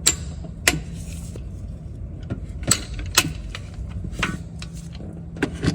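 Hand tools working on the engine's timing-belt parts: separate sharp metallic clicks and clanks every second or so, over a steady low hum.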